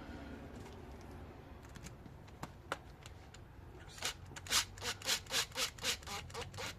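Quick back-and-forth scrubbing strokes by hand, about four a second, on a rusty brake caliper part to clear scale, starting about four seconds in after a couple of light clicks.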